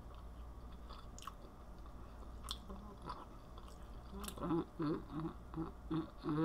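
A person chewing a mouthful of chicken pesto pasta, with soft mouth clicks. In the last two seconds comes a run of short closed-mouth "mm" hums of enjoyment.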